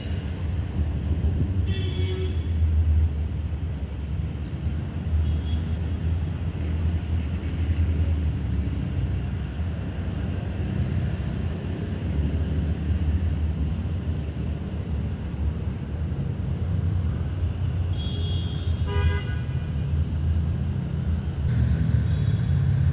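Steady low rumble of outdoor background noise, with a short high toot about two seconds in and another brief pitched call near nineteen seconds.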